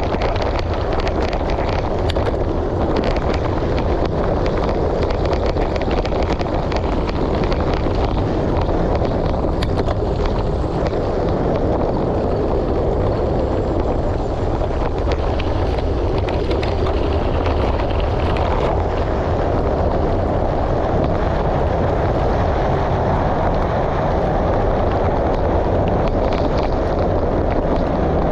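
Wind buffeting the microphone over tyres rolling on a gravel road, with scattered small clicks of loose stones, on a gravel bike ride.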